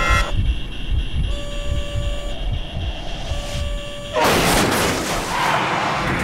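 Low rumble in an airliner cockpit with two steady warning tones, each about a second long. About four seconds in comes a sudden loud crash of noise as the Airbus A330 slams down onto the runway at high speed in a violent, too-fast landing.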